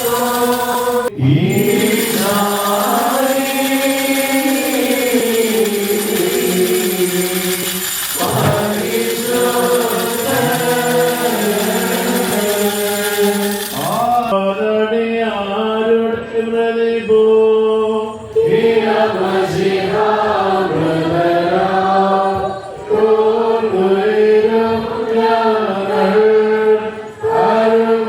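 Orthodox liturgical chant: voices singing a slow melody in long held notes. About halfway through there is a change in the recording, where the background hiss drops away.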